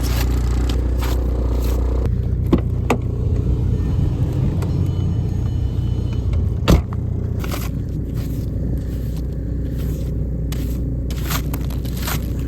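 TDI turbodiesel engine idling steadily after a cold start in the snow, with intermittent scraping strokes as snow is cleared off the car, one sharper scrape about two-thirds of the way in.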